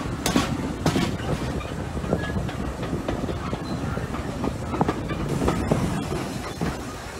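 Passenger train coach wheels running along the track: a steady low rumble with irregular clicks and clacks over the rail joints, the sharpest in the first second, heard from an open window of the moving carriage.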